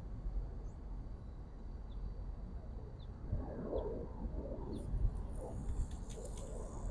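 Low bird calls repeating from about three seconds in, with a few faint high chirps, over a steady low rumble.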